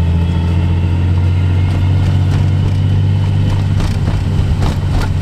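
Nissan 300ZX (Z32) V6 engine running steadily while driving, heard from inside the cabin. It carries a lifter tap that the owner thinks comes from all the driver's-side lifters, with a few short clicks in the last second or so.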